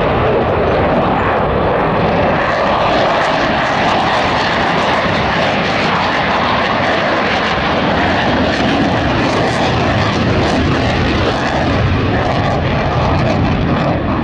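Airplane engine noise, loud and steady, from an aircraft flying a display.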